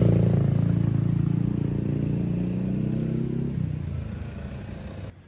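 Motorcycle engine running at a steady pitch, fading away over a few seconds, then cut off abruptly.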